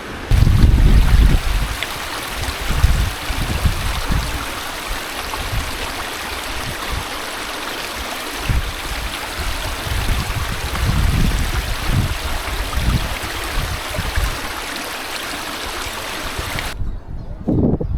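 River water running steadily, with wind buffeting the microphone in low, irregular gusts. The water sound cuts off abruptly near the end.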